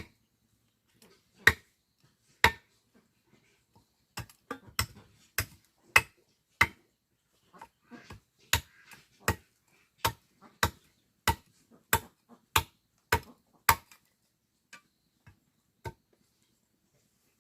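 Hand tool chopping with repeated sharp strikes: two single blows, then a steady run of about one or two a second, thinning to a couple of faint strikes near the end.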